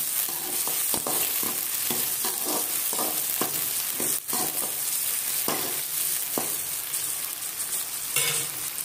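Sliced shallots sizzling in hot oil in a metal kadai while a metal spatula stirs them, scraping and knocking against the pan about twice a second.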